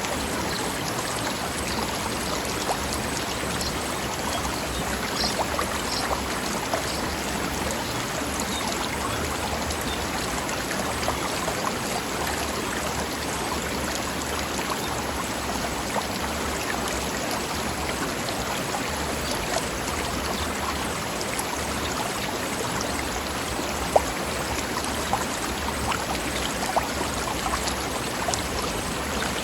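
Mountain stream flowing over rocks: a steady rush of water flecked with small splashes and drips, with one sharper click late on.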